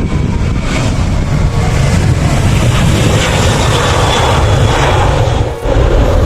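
Jet airliner engines heard at close range: a loud, steady rush with a deep rumble, dipping briefly about five and a half seconds in.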